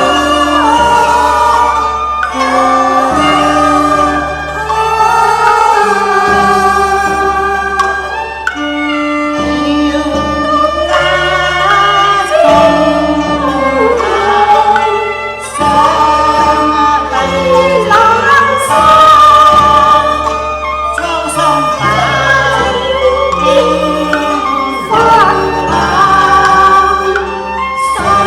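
A vocal song with instrumental accompaniment: a voice sings a gliding, ornamented melody over steady, stepping bass notes.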